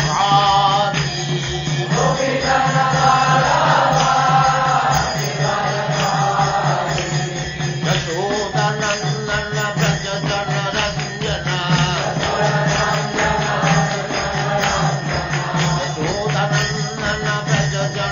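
Devotional mantra chanting: voices singing over a steady low drone, with a rhythmic percussion beat.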